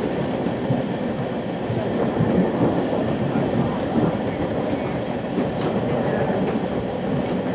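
Rumble and rattle of a West Coast Express commuter rail car running along the track, heard from inside the passenger car, with a few faint clicks of the wheels over rail joints.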